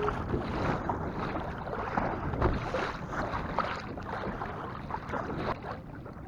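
Strong wind buffeting the microphone over choppy seawater slapping against a kayak hull, with a heavier low thump about two and a half seconds in.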